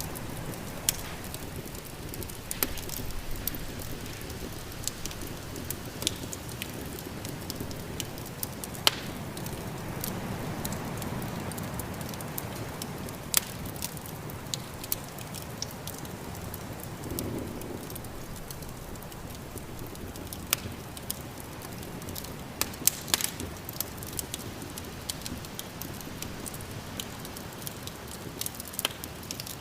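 Wood fire in a fireplace crackling, with sharp pops scattered irregularly over a steady low rush of snowstorm wind.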